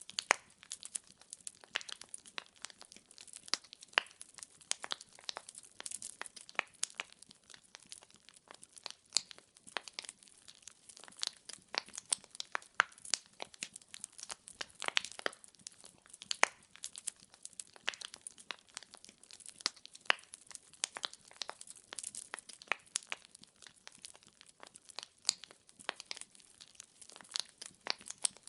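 Wood fire burning in a fireplace: logs crackling and popping in dense, irregular snaps over a faint hiss.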